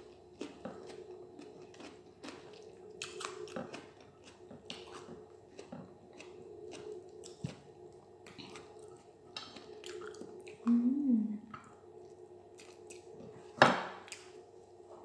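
Close-up sounds of a person eating rice and boiled egg by hand: wet chewing, clicks and smacks of the mouth, with a short hummed 'mm' about eleven seconds in and one loud sharp mouth sound near the end as a handful of food goes in. A steady low hum runs underneath.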